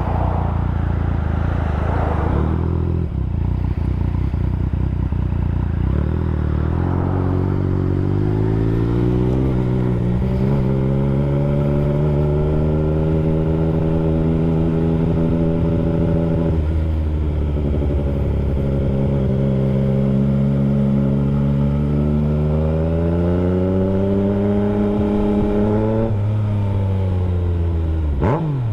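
Yamaha FZ-09's 847 cc three-cylinder engine running under way as the motorcycle is ridden. The engine pitch climbs, dips briefly as it changes gear and holds steady at speed. It drops about halfway through, climbs again and falls off near the end.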